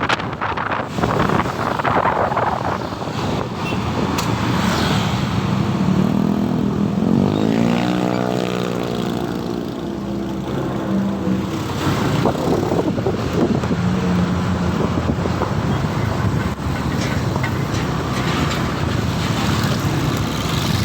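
Motorcycle on the move in traffic: engine running with road and wind noise throughout. The engine note climbs about seven seconds in and holds for a few seconds.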